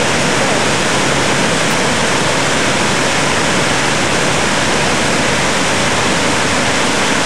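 Flash-flood water rushing and churning in a loud, steady wash.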